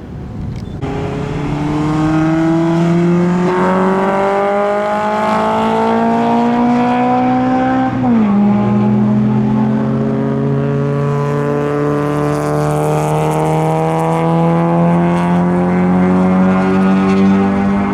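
Car engine pulling hard under acceleration, its pitch climbing steadily for several seconds. About eight seconds in it drops sharply at an upshift, then climbs again through the next gear.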